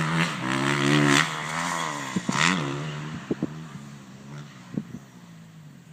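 Dirt bike engine revving on a motocross track, pitch rising and falling with the throttle, loud at first and then fading as the bike rides away.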